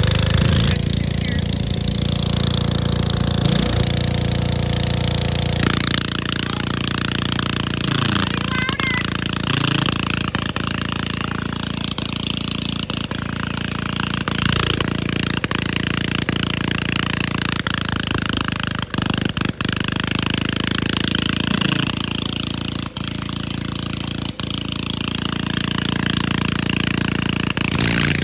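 Cub Cadet tractor engine screaming at full throttle with its governor wired open, deliberately over-revved to make it blow up, with a hard, rapid rattle. Its speed wavers up and down several times.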